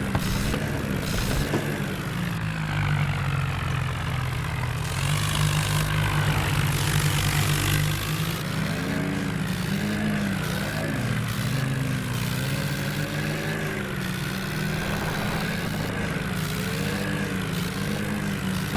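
Tractor's diesel engine running steadily, getting louder for a few seconds midway.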